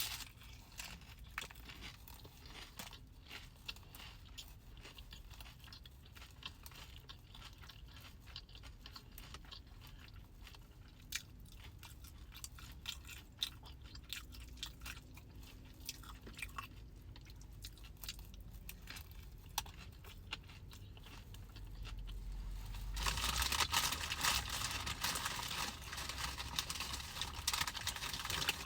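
A person chewing and crunching food close to the microphone, with many small sharp mouth clicks. Near the end there is a louder, noisier stretch of a few seconds.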